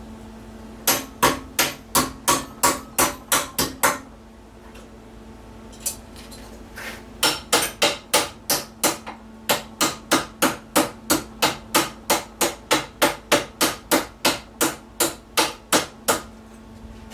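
Small hammer striking a sheet-steel patch panel in quick, even blows, about three a second, to shape its curve: a run of about ten strikes, a pause of a few seconds, then a longer run of nearly thirty. A steady low hum runs underneath.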